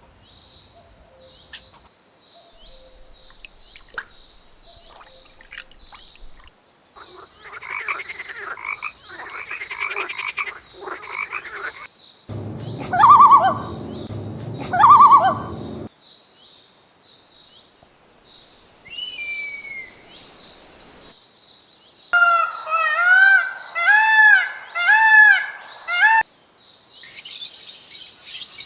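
Frogs croaking in a series of short spliced clips: repeated pulsed calls, then two loud croaks, then a run of rising-and-falling calls.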